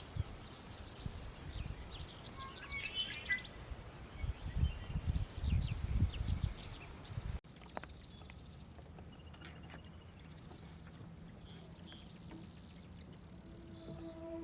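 Outdoor ambience of small birds chirping, with wind gusting on the microphone. About seven seconds in the sound cuts to a quieter stretch of scattered bird calls.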